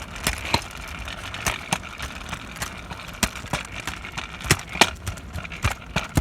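Scooter rolling over pavement: a low wheel rumble with many irregular sharp clicks and knocks from the jolting ride, the loudest knocks a little past the middle.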